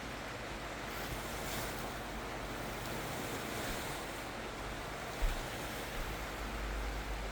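Campfire burning with a steady rushing hiss. Wind starts buffeting the microphone about five seconds in.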